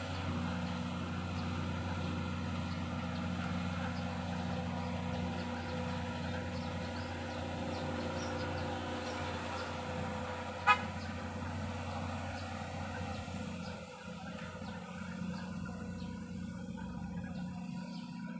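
Excavator engine running steadily, with one sharp metallic clang about ten seconds in, the loudest sound, as steel sheet piling is handled.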